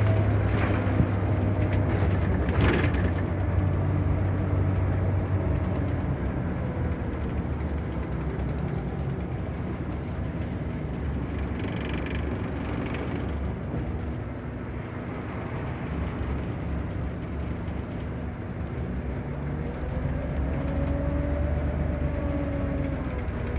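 Scania K94 city bus with its Scania DC9 five-cylinder diesel running on the move: the engine note eases off over the first half, then picks up again with a rising pitch near the end.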